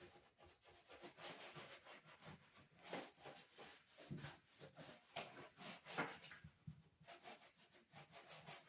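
Faint, irregular rubbing and scraping strokes, with a few sharper scrapes or knocks about three, five and six seconds in.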